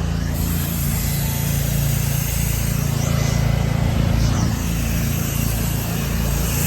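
Gas-powered pressure washer engine running steadily, with the hiss of a high-pressure water spray from a fan nozzle working on a fence.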